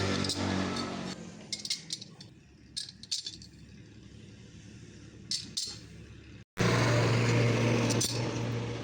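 Scattered light metallic clinks and taps. About two-thirds of the way through, the sound cuts off abruptly and a steady machine noise with a low hum starts.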